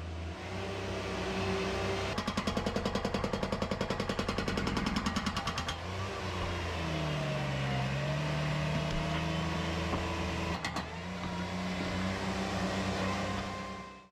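Bobcat MT100 mini track loader's engine running and working under varying throttle. A fast, even rattle comes in about two seconds in and lasts a few seconds, and the engine pitch then rises and falls.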